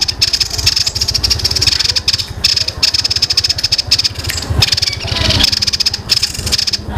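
Young songbird singing a long, dense, rapid chattering roll that imitates the squabbling calls of fighting tree sparrows. The chatter is broken by a few brief pauses.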